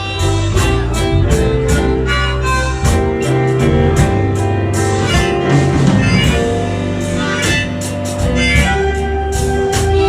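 Live blues band playing an instrumental break: a held, wailing lead melody over bass, guitar and a steady drum beat.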